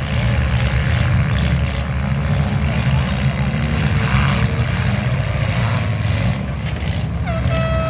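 Several compact demolition-derby cars' engines running and revving in a steady, loud rumble. Near the end, a steady horn-like tone starts.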